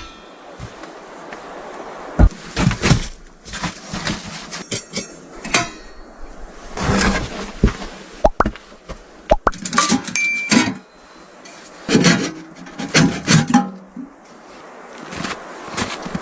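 Irregular clinks and knocks of hard household objects being handled, like dishes and pots, with a brief ringing tone about ten seconds in.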